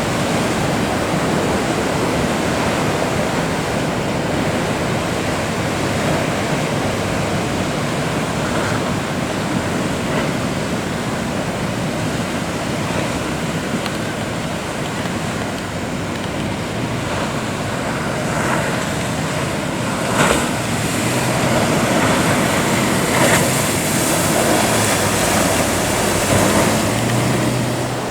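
Ocean surf breaking in a steady, continuous rush. A low steady hum comes in over the last few seconds.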